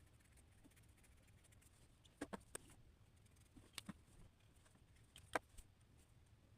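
Near silence with a few light clicks and taps, such as drawing tools set down or tapped on a desk: three quick ones about two seconds in, two more about a second later, and a sharper click near the end.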